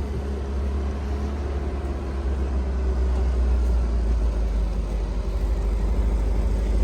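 A motor vehicle's engine running steadily with a low rumble, growing slightly louder.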